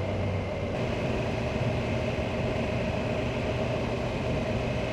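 Triumph motorcycle cruising at a steady speed: a constant engine drone mixed with wind and road noise.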